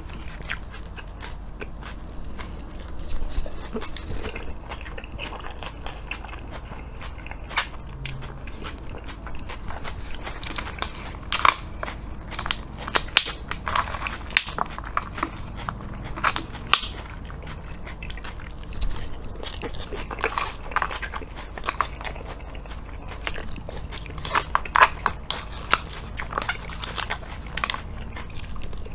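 Close-miked chewing of crisp lettuce and purple cabbage salad, with irregular crunches throughout.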